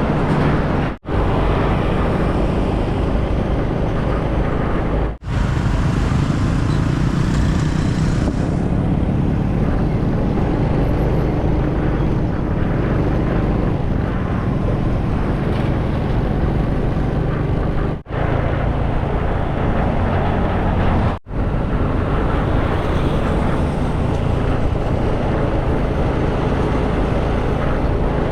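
Motorcycle riding at speed: steady wind, engine and road noise picked up by the camera microphone. The sound cuts out briefly four times.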